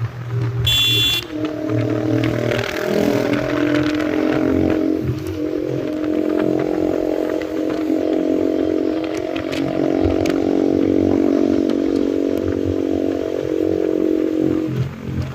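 Yamaha MT-15's single-cylinder engine through a loud Austin Racing aftermarket exhaust, running at fairly steady revs while riding. A short high-pitched beep sounds about a second in.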